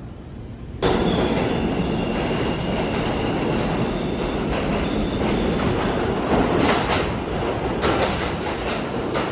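Train car running on the rails: steady rumbling noise with a faint high wheel squeal. It starts abruptly about a second in, with a few sharp clacks over the rail joints later on.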